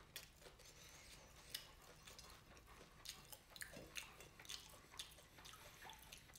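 A person chewing fried catfish nuggets close to the microphone, heard as faint, irregular mouth clicks and crunches, several a second.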